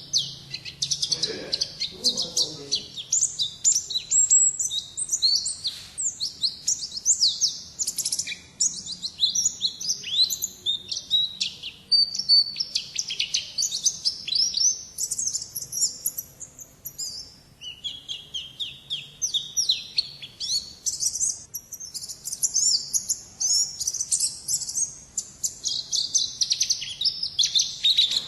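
Pleci (white-eye) singing in the long, continuous ngalas style: rapid high chirps and short trills strung together almost without a pause.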